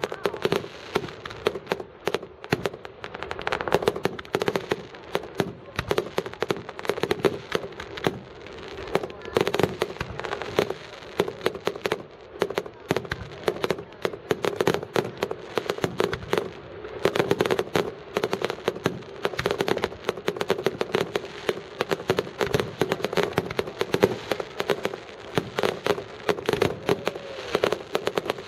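Fireworks going off in close, irregular succession, a dense run of cracks and bangs, with voices in the background.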